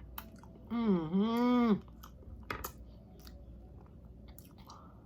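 Close-miked chewing and wet mouth clicks of someone eating shrimp and vegetables, with one hummed "mmm" lasting about a second near the start, dipping and rising in pitch.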